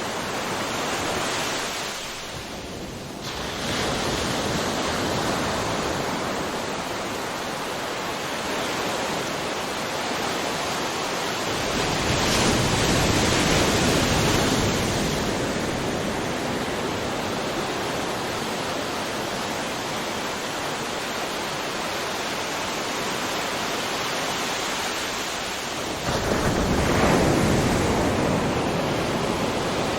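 Ocean waves breaking on a shore: continuous surf wash, with a bigger wave swelling up about twelve seconds in and another crashing in suddenly near the end.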